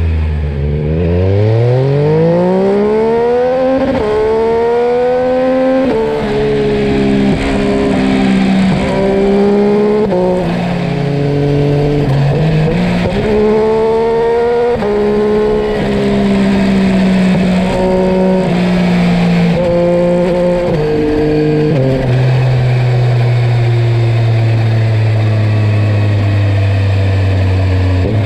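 Yamaha Tracer 9's 890 cc inline-three engine through a carbon Akrapovič exhaust, revving up hard from low revs in the first few seconds, then climbing and dropping sharply several times as the revs change. From about two-thirds through it holds steady at lower revs.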